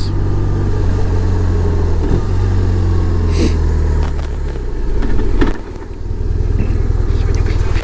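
BMW R1200 boxer-twin motorcycle engine running under way, with wind rushing past. About five and a half seconds in, the low engine sound drops away and the overall level falls.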